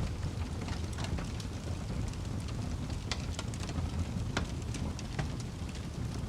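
Wood fire crackling in a fireplace: irregular sharp pops and snaps, a few of them louder, over a steady low rumble of the burning fire.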